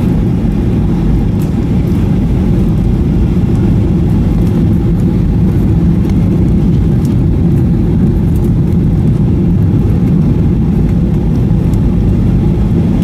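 Steady low roar heard inside the cabin of a Boeing 737-800, its engines and rushing air during the landing.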